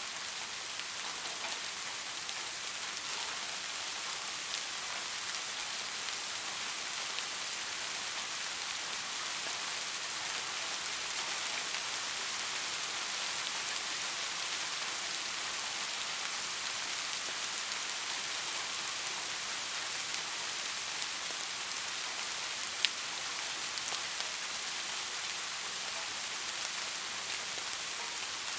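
Steady rain falling, a dense hiss of drops on a surface with faint scattered individual drop ticks and one sharper drip about 23 seconds in.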